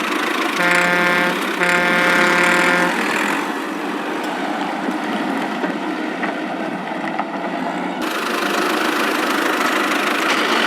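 A vehicle horn honks twice, a short honk then a longer one, each on one steady pitch, over a continuous rumbling engine sound.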